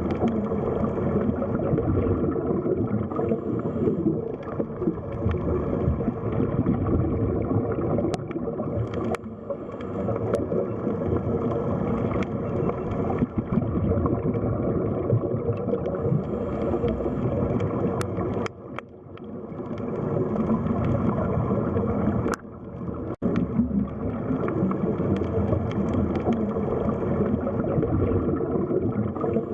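Underwater sea ambience: a dense, muffled rumble of moving water with gurgling, a few sharp clicks, and two brief dips in level in the second half.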